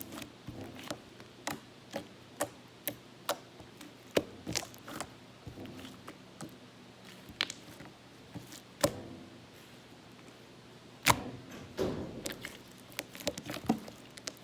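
Slime being played with by hand: squished and pulled, making irregular sharp clicks and pops with short quiet gaps between them.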